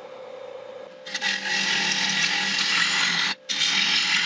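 A bowl gouge cuts into a spinning wooden bowl blank on a wood lathe, facing the top flat. A loud, rough, shearing cut starts about a second in and breaks off for a moment as the tool leaves the wood, then resumes. The lathe motor hums underneath.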